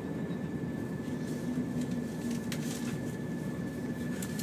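Steady running rumble heard from inside a passenger train as it rolls along the platform into a station, with a thin, steady high-pitched whine and a few light clicks.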